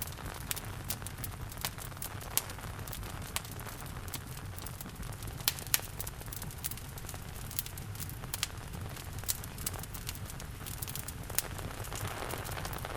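Wood fire crackling, with irregular sharp pops and snaps, a few of them loud, over a steady low rumble and a soft hiss of rain.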